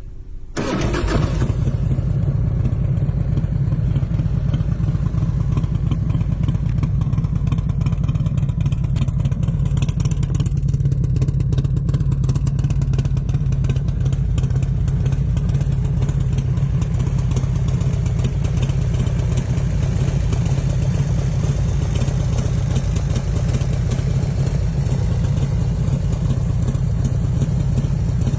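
A 1997 Harley-Davidson Heritage Springer Softail's V-twin engine starts sounding about half a second in, then runs steadily at a constant speed with no clear revving.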